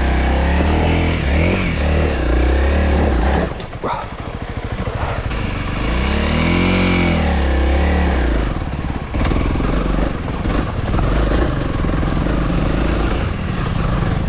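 Honda CRF300L single-cylinder dirt bike engine revving up and down under load on a steep, technical off-road climb. The revs fall away sharply about four seconds in, rise again a few seconds later, then run lower and uneven.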